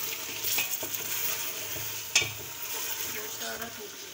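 Boiled beef trotters sizzling in hot oil on a high flame in an aluminium pressure cooker, stirred with a spoon that knocks and scrapes against the pot, most sharply about two seconds in. This is the bhuna stage, frying the cooked meat in oil before the stock goes back in.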